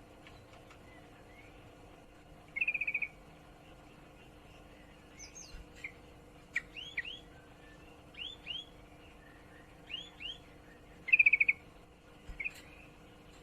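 Female yellow-vented bulbul (trucukan) calling in breeding condition to attract males: two short, fast chattering trills, one about two and a half seconds in and a louder one near the end, with pairs of short rising chirps between them.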